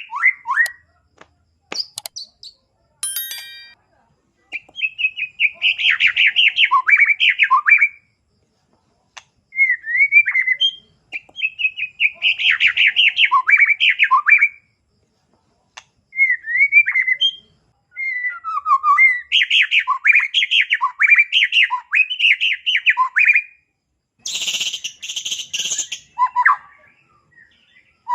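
White-rumped shama (murai batu) singing in bouts of rapid, varied chirping phrases with short pauses between them. A harsh rasping call comes near the end.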